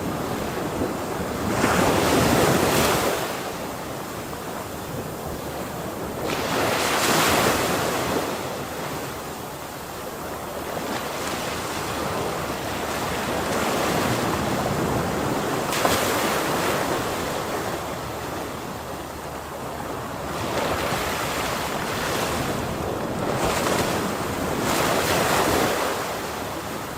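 Ocean waves breaking on a shore, a steady hiss of surf that swells into a louder crash every few seconds, about five times, with some wind.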